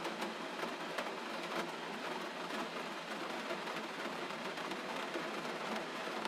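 Steady gentle rain falling, an even hiss with scattered small clicks of drops.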